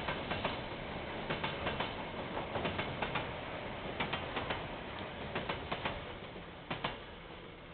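Freight train wagons rolling past, their wheels clicking over rail joints in close pairs over a steady rumble. The clicks thin out and the rumble fades as the end of the train goes by, with a last pair of clicks near the end.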